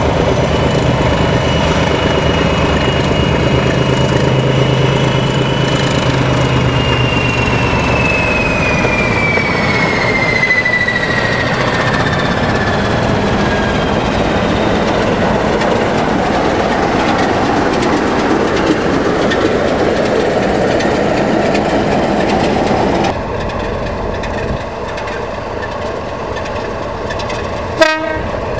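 Diesel locomotive running past, its engine drone carrying a high whistle that falls steadily in pitch as it goes by, along with the noise of the train on the rails. About 23 seconds in, the sound drops abruptly to a quieter train noise, and a single sharp crack comes near the end.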